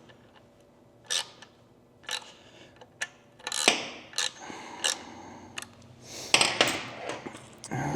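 Hand tools and metal parts being handled at a workbench: a string of separate clicks and clanks at uneven intervals, then a short burst of rustling noise about six seconds in.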